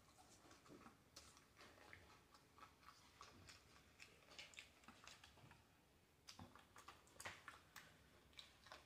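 Faint chewing of fried food, a scatter of soft wet mouth clicks, a little louder near the end.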